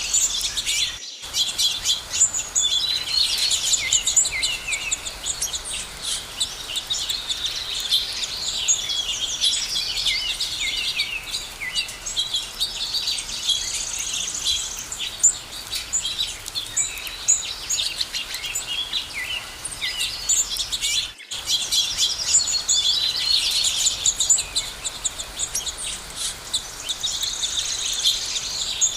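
Dense chorus of many small birds chirping and trilling together without a break, with two very brief gaps where the sound cuts out, about a second in and about two-thirds of the way through.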